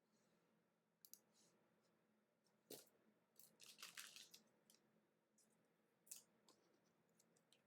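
Near silence with a few faint clicks and a short soft crackle about halfway through: trading cards being handled and slid in a pack break.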